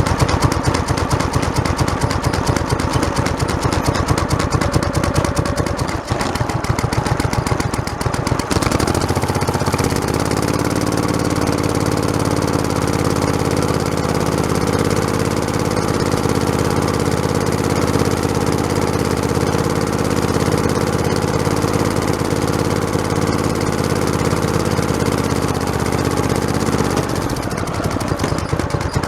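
Small engine of a modified lawn tractor running as it drives, with a fast, rattling beat. About nine seconds in a steady humming tone joins it and drops out again near the end.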